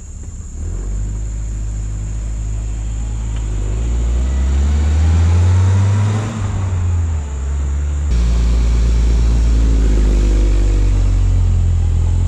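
A 1978 Datsun 210's small four-cylinder engine and exhaust as the car drives past, building to its loudest about halfway through. The sound changes abruptly about eight seconds in to a steady engine note.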